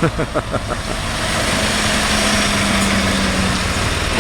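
Heavy truck engine running loudly close by, with a steady droning note for a couple of seconds in the middle; loud enough to "wake up the village".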